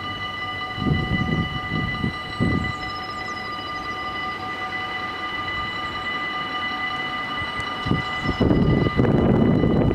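Level-crossing warning bells ringing steadily on one unchanging tone. A few low rumbling surges come about a second in, and a train rumbles past loudly from about eight and a half seconds.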